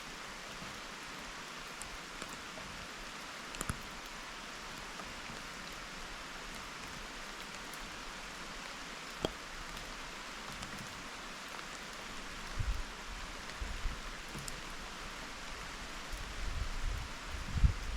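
Steady rain falling, a even hiss with a few sharp ticks of drops striking. Low rumbling comes in over the last few seconds.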